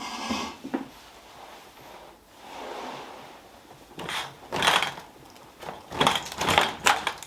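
Four short bursts of scraping and knocking, like objects being moved and set down on a surface.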